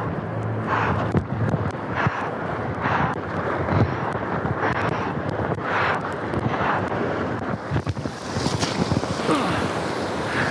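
Whitewater rapids rushing and splashing around a kayak, with wind buffeting the microphone and repeated splashes about once a second.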